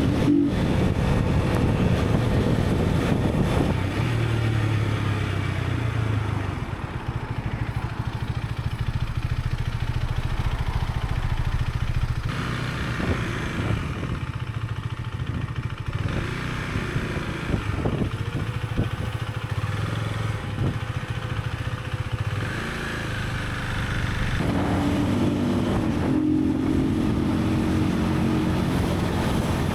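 Husqvarna Svartpilen motorcycle being ridden, its engine running continuously, with the engine note shifting up and down as the speed changes.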